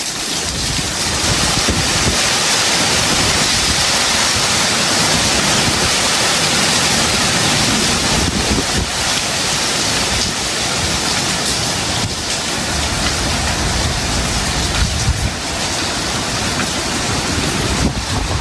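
Heavy tropical rain pouring steadily, with gusts of wind rumbling underneath.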